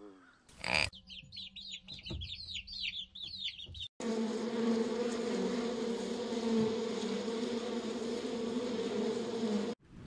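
Rapid high chirping for about three seconds, then a honeybee colony buzzing on the comb: a steady, even hum that cuts off just before the end.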